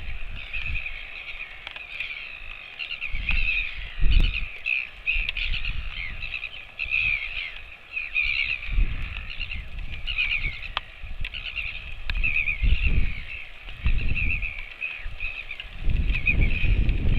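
Birds chirping continuously in many short, rapid calls, with irregular low rumbles underneath.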